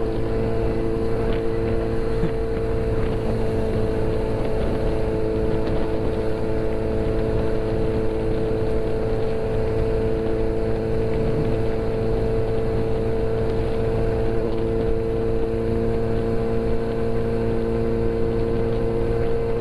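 Motorcycle engine running at a steady cruising speed, a constant unchanging hum over rushing noise from riding.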